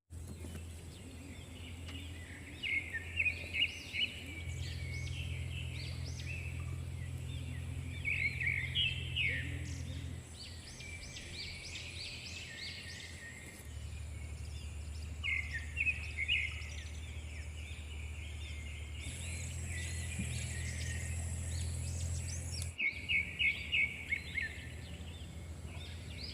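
Small birds chirping in quick runs of notes every few seconds, over a steady low hum and a faint, steady high-pitched whine. The background shifts abruptly several times.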